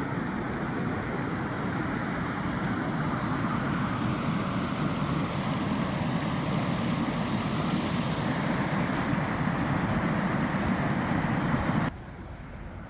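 Steady low rushing outdoor noise that cuts off abruptly about a second before the end.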